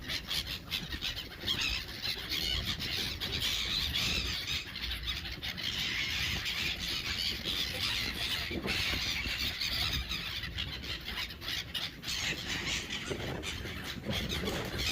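A flock of gulls squealing and squawking over one another in a dense, continuous clamour as they crowd in to be fed.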